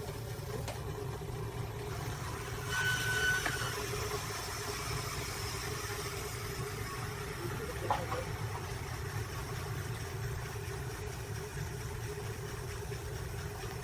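Wood lathe running with a steady motor hum, with a brief high whine about three seconds in.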